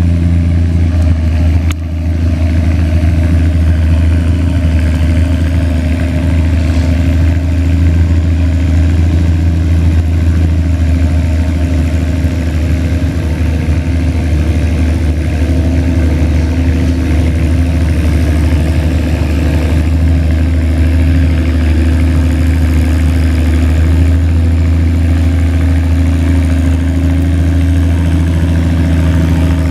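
Antique farm tractor engine running loud and steady at an even pitch, with a brief dip in level about two seconds in.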